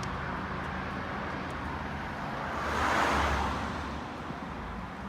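Small single-cylinder monkey bike engine running at road speed under steady wind and road noise. The noise swells and fades about three seconds in.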